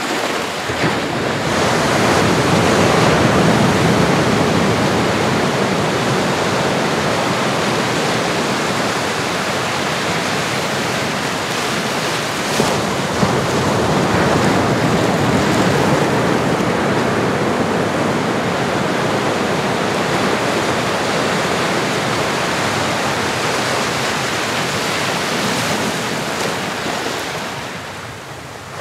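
Recorded ocean surf: a steady rush of waves breaking and washing, swelling and easing. It falls away near the end as a wave recedes, then builds again.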